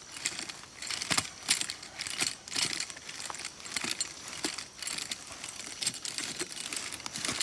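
Dry leaves crackling and rustling in irregular bursts as they are spread over freshly sown seeds as a protective cover.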